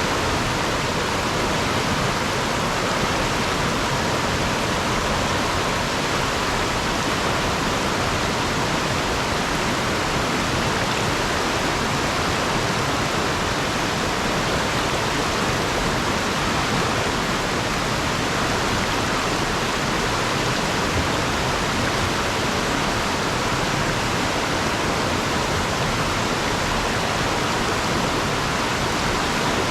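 Fast river water rushing over and around rocks: a steady, loud, even rush of water.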